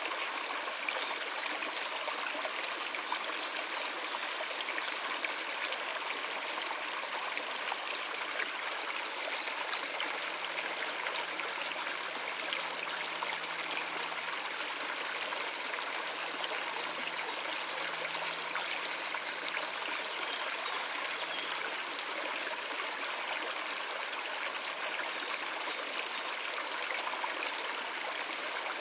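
Stream water running and splashing steadily over rocks.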